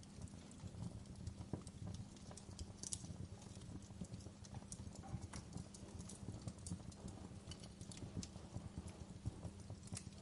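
Wood fire burning low in a fireplace: a steady crackle of small, irregular pops and snaps over a soft low rumble of the flames.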